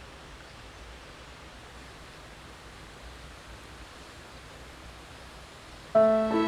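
Steady, even rush of a stream's cascades tumbling over rocks. A little before the end, music with held notes cuts in abruptly and much louder.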